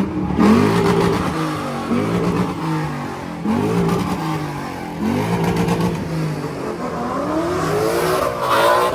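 A car engine revved again and again in short bursts, its pitch climbing and dropping back each time, then a longer climbing rev near the end.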